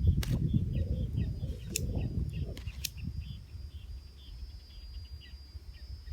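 Birds chirping again and again in short calls, with a low rumbling noise on the microphone over the first three seconds and a few sharp clicks.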